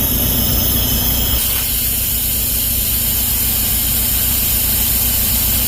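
Volvo D13 truck diesel engine running with a loud, steady hiss of compressed air escaping from the air system. A high whine in the mix drops out about a second and a half in.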